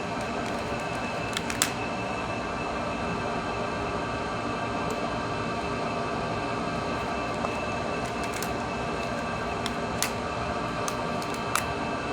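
Steady mechanical hum with a few fixed tones in it, and a handful of small clicks and taps, the sharpest about one and a half seconds in and a couple more near the end.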